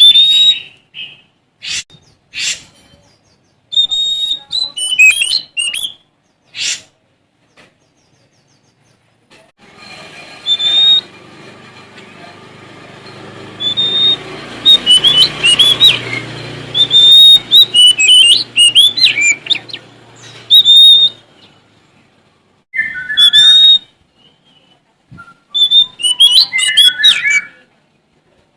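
Sumatran kacer (oriental magpie-robin) singing vigorously in bursts of loud whistled phrases with quick rising and falling notes, pausing between phrases. From about ten seconds in to about twenty-one seconds a steady low background noise runs under the song.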